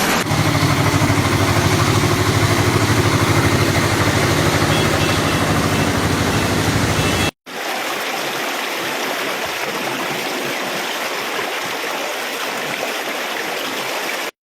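Steady hiss of heavy rain and running water. Through the first half a vehicle engine runs low underneath. After an abrupt break only the rain hiss is left, and it cuts off suddenly near the end.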